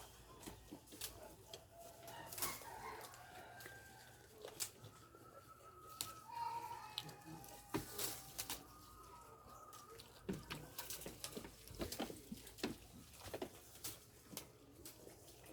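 Chickens clucking with short calls, amid many sharp clicks and knocks.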